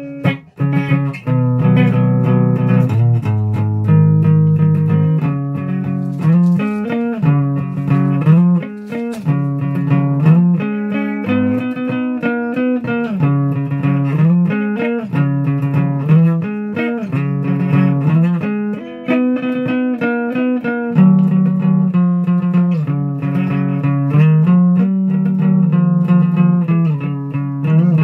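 Guitar playing a continuous line of plucked notes, mostly in the low register.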